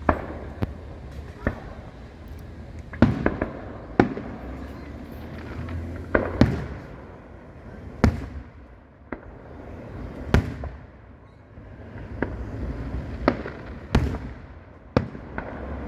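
Fireworks show: aerial shells bursting, about a dozen sharp bangs at irregular intervals, with a low rumble between them.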